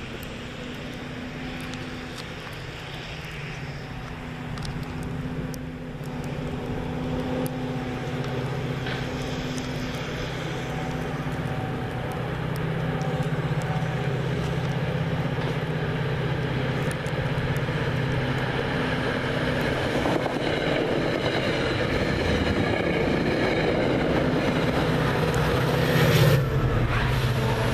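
Commuter train approaching in push mode, cab car leading, with the F40PH diesel locomotive's engine drone at the rear growing steadily louder as it nears. A brief, louder rush near the end as the train passes close.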